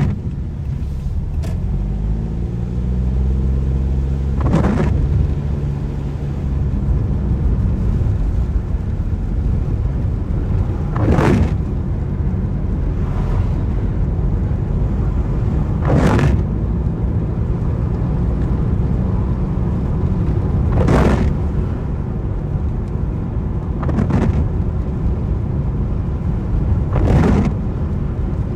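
Car driving on a wet road: a steady low rumble of engine and tyres, with the engine note climbing as it accelerates a couple of seconds in. A brief swish comes every four or five seconds, the windscreen wipers sweeping the rain.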